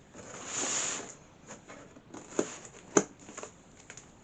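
Cardboard shipping box being worked open by hand: a brief scraping, rustling sound in the first second, then a few sharp taps and knocks against the cardboard.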